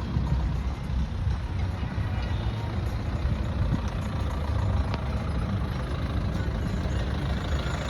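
Tractor diesel engine running steadily with a deep low rumble, driving a wood chipper.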